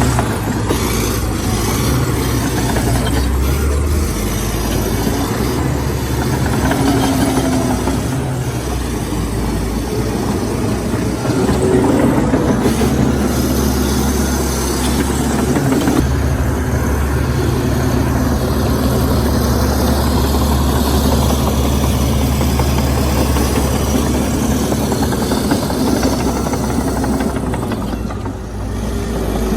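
Heavy diesel engine of earthmoving machinery running steadily under work, with a brief dip in level near the end.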